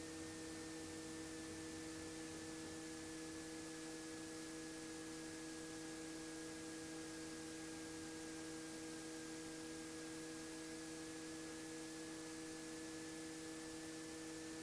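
Faint steady electrical hum with a few steady tones, one high tone sinking slightly, from a Robinson R44 helicopter's intercom audio feed while no one talks.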